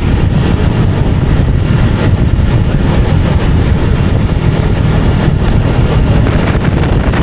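Motorcycle on the move: a steady, loud low rumble of engine and riding noise with no change in pace.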